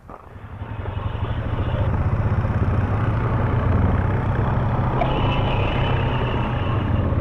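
ATV (quad) engine running, building up over the first second or so and then running steadily.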